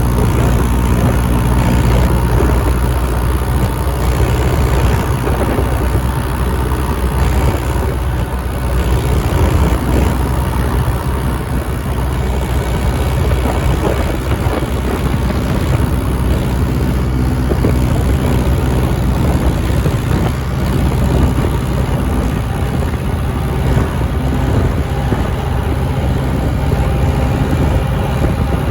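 John Deere tractor's diesel engine running steadily at a constant pace.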